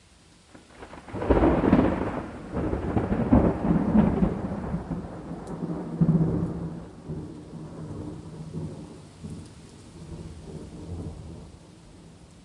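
Thunder over steady rain: a loud crack about a second in, then a long rolling rumble with several swells that slowly dies away.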